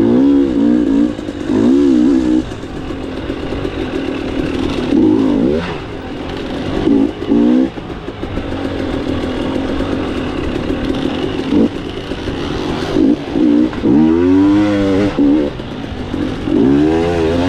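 Dirt bike engine revving in repeated short throttle bursts, its pitch rising and falling again and again between steadier running.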